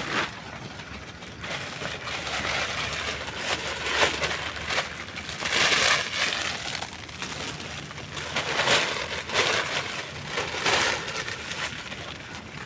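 Campfire of dry wood logs crackling and popping: a steady hiss dotted with sharp snaps, swelling into louder bursts of crackling every couple of seconds.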